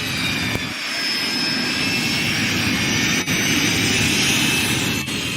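Jet trainers in formation flying past, their engines giving a steady roar with several high whines that drift slowly in pitch.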